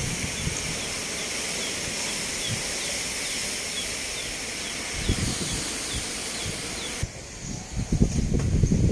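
Steady outdoor hiss with a faint high chirp repeating about three times a second. Seven seconds in it changes abruptly to storm wind gusting and buffeting the microphone, which grows louder toward the end.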